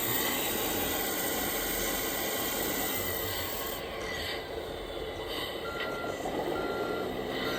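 Model RC truck running with a steady whirring drive and gear noise. Near the end, its reversing beeper starts, sounding repeated single beeps a little more than once a second.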